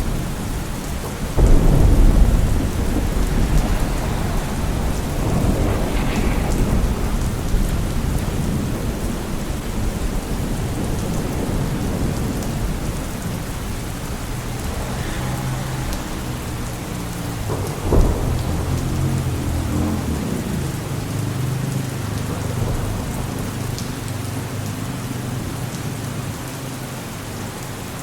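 Steady rain falling, with thunder: a loud low rumble breaks about a second and a half in and rolls on for several seconds, and a sharper crack comes about two-thirds of the way through.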